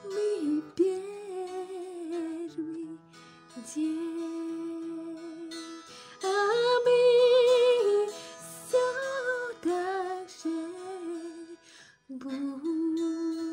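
A female voice humming a slow hymn melody without words, holding long notes with vibrato, over a soft instrumental accompaniment. It is loudest on a long high note about six to eight seconds in.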